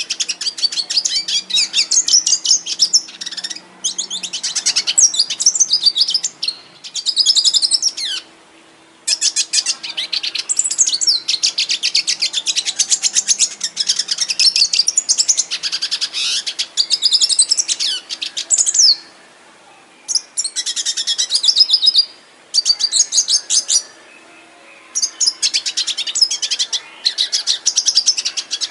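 Domestic canary singing long, rapid rolling trills and chattering phrases, broken by a few short pauses.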